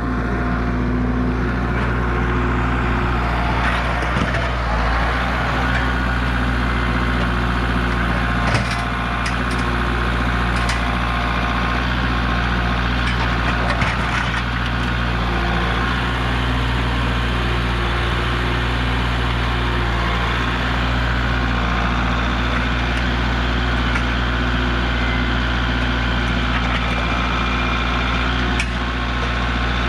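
Tractor engine running steadily, with a few sharp cracks and knocks of breaking parts over it.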